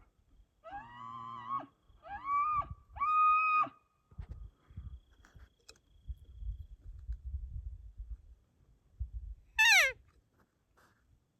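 Bull elk bugling: three high whistled notes in the first four seconds, the first over a low rough growl, then a quick squeal that falls steeply in pitch near the end.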